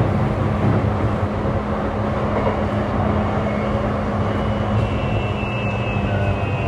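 Interior running sound of a JR East E235-1000 series electric multiple unit: a steady rumble of wheels on rail with a low motor hum. A faint high tone comes in near the end.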